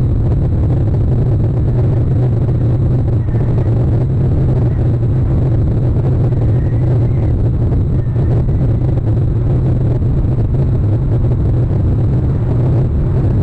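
Steady low rumbling noise on an outdoor camera microphone, with a few faint high chirps about three, seven and eight seconds in.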